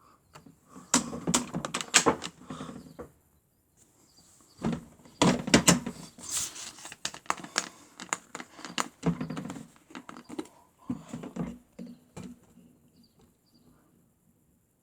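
Toy washing machine being handled: two long bursts of quick, irregular plastic clicks and knocks, the second running several seconds before it dies away.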